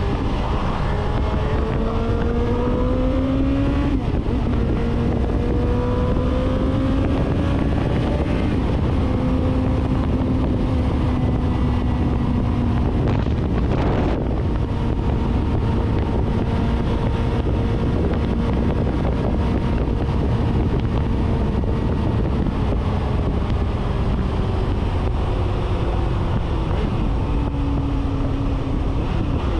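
Suzuki GSR750's inline-four engine through a 4-into-1 full exhaust, accelerating with two upshifts in the first nine seconds, then cruising at steady revs that ease down slowly before climbing again near the end. Wind noise on the helmet microphone runs throughout, with a brief whoosh about halfway.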